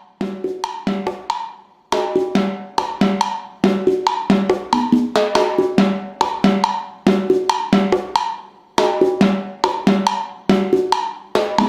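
Drum music: a quick rhythm of pitched drum strokes, several a second, repeating in short phrases.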